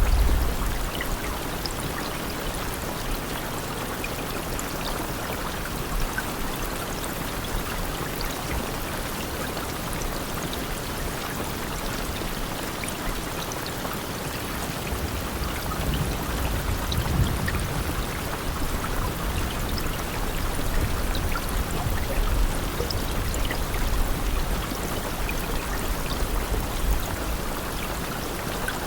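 Steady rain, a dense even hiss with scattered drop ticks. From about halfway through, low rumbles swell under it.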